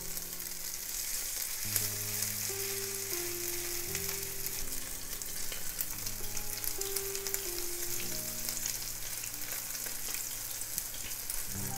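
Chicken and cheese fritter mixture frying in shallow oil in a nonstick pan: a steady sizzle as more spoonfuls are laid in.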